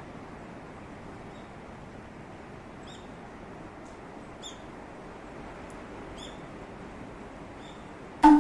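A small bird gives short, high, falling chirps every second or so over a steady background rush. Music comes in loudly at the very end.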